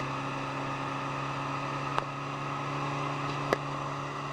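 Boat engine running at a steady, even hum while towing a kayak, with two short sharp clicks about two seconds in and about three and a half seconds in.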